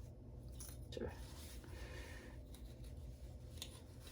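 Faint clicks and scraping of metal clips being worked off a computer motherboard by hand or with a tool.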